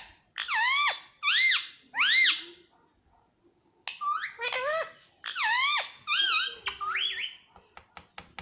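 Indian ringneck parrot giving a series of loud, shrill squawks, each rising then falling in pitch, with a short pause a little before halfway. Near the end come a rapid string of sharp clicks.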